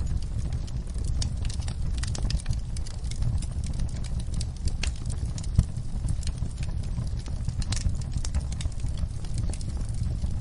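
Wood fire in a fireplace crackling, with irregular sharp pops over a steady low rumble of the flames; one louder pop comes about halfway through.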